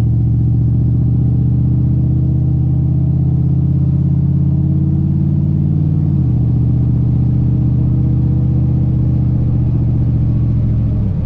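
Cammed 5.3 L V8 of a GMC Sierra pickup running through short pipes with small burnt-tip muffler tips, heard from inside the cab while driving: a steady, drony exhaust note. The pitch climbs a little, then drops suddenly about six seconds in and holds steady.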